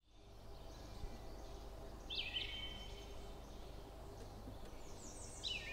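Birds chirping over a faint, steady outdoor background, with a short run of high calls about two seconds in and another near the end.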